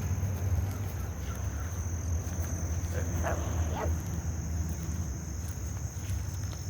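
Insects, crickets by the sound of it, trilling steadily in a single high-pitched drone, over a low rumble. Two faint short calls sound about three seconds in.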